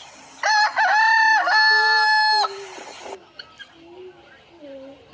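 A loud bird call: a few short, bending notes about half a second in, then one long held note lasting about a second.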